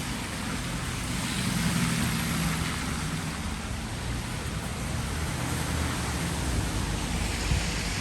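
Street traffic on a wet road: a steady hiss of tyres on wet tarmac under a low engine hum from passing vehicles, swelling briefly about two seconds in.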